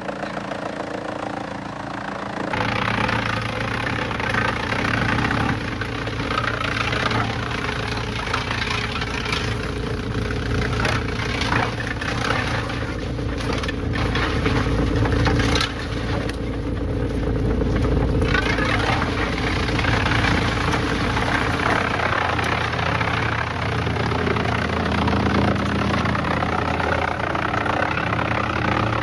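Wood chipper running and chewing through sawmill waste wood: a steady engine with cracking and crunching. It gets louder about two and a half seconds in, with a run of sharp cracks in the middle.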